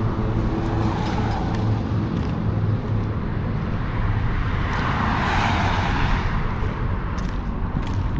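Road traffic: a steady low engine rumble, with a vehicle passing that is loudest about five seconds in.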